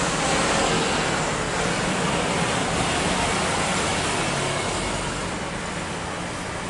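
Jet airliner engine noise: a loud, steady rush with a low hum beneath it, easing off a little after about four and a half seconds.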